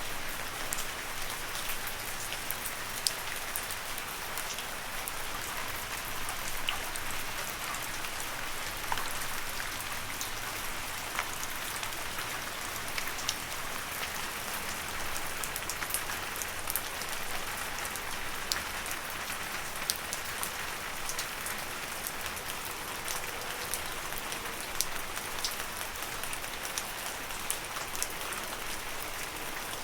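Steady gentle rain falling on leaves, with individual drops ticking sharply through an even patter.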